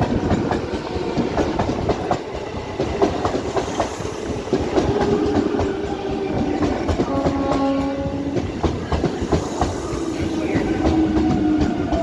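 ICF Medha electric multiple unit (EMU) local train running past, its wheels clattering rapidly over the rail joints, with steady tones joining about five seconds in.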